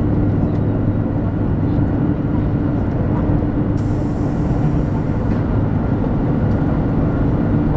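Cabin running noise inside a 200 series Shinkansen car travelling at speed: a steady low rumble and drone with a constant hum. A brief high hiss joins in for about a second and a half near the middle.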